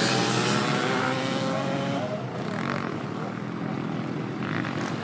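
Motocross dirt bike engine running, its pitch falling slightly and its sound fading over the first two seconds, then engine noise continuing more quietly.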